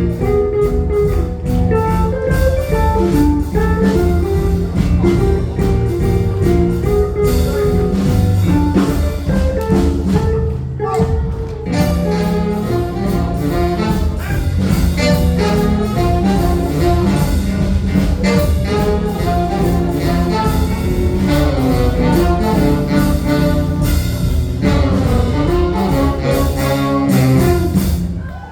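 A live jazz band playing a tune, which comes to its end just before the close.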